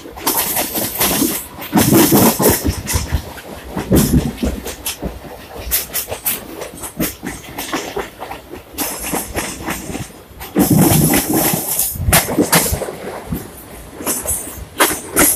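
Passenger trains running side by side on adjacent tracks: wheels rumbling and clattering over rail joints, with many sharp clacks. The noise surges loud and dies back irregularly.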